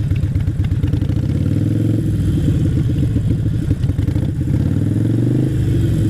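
Motorcycle engine running with a pulsing beat, its pitch rising as it is revved about two seconds in and again near the end.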